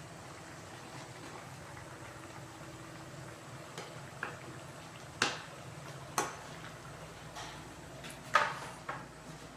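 Kitchen clatter while cooking: about seven sharp knocks and clinks of utensils against pots or dishes in the second half, the loudest near the end, over a steady low hum.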